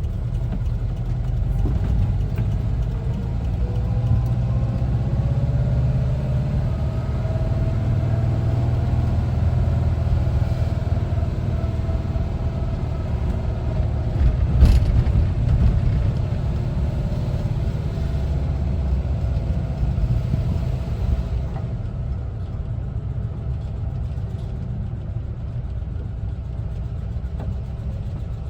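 Air-cooled Type 4 flat-four engine of a 1974 Volkswagen Westfalia camper bus running under way, heard from inside the cab over a steady low road rumble. The engine note rises early on and then slowly sinks. There is a single sharp click about halfway, and the hiss and high noise drop off about three-quarters of the way through.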